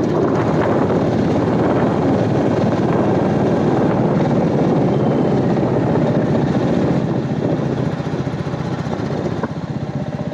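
Royal Enfield Meteor 350's single-cylinder engine running at low road speed, its exhaust pulses steady, easing off a little near the end.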